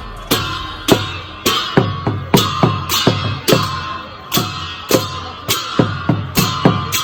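Traditional Newar drum and hand-cymbal ensemble playing the fast Lakhey dance beat: low drum thumps under loud, ringing cymbal clashes, about two a second.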